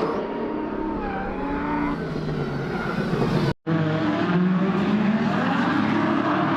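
Engine of a Scion FR-S drift car running, its pitch wavering up and down as the revs change. The sound drops out abruptly for a moment just past halfway, then the engine carries on.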